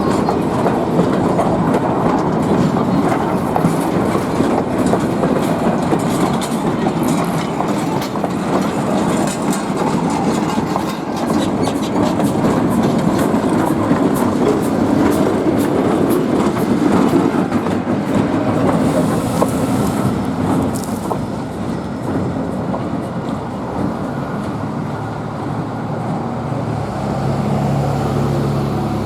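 Railroad cars of a shoved passenger train rolling past at a crossing: a steady rumble of wheels on rail with a quick run of clicks from the rail joints. It eases off toward the end, when a low steady engine hum comes in.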